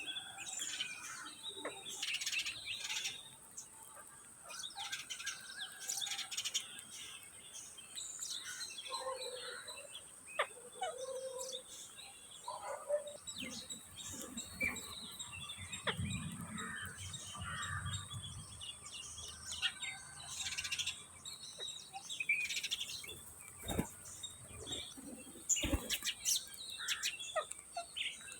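Green ringneck (rose-ringed) parakeets chirping and chattering in a steady stream of short calls, over a constant high hiss. Two sharp clicks come near the end.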